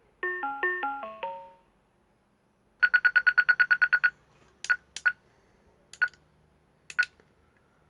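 Electronic beeps from a Quasar ARM metal detector's control unit after a firmware update: first a short melody of stepped tones, then a quick run of about a dozen identical beeps, then single beeps spaced about a second apart, as its buttons are pressed to change settings.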